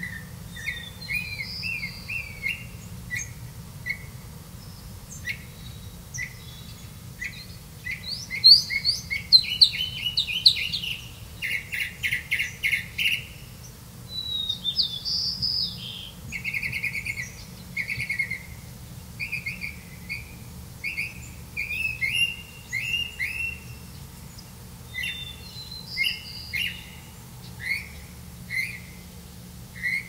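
Birds chirping: a long run of short high chirps and quick trills, busiest in the middle and thinning to single chirps about a second apart near the end.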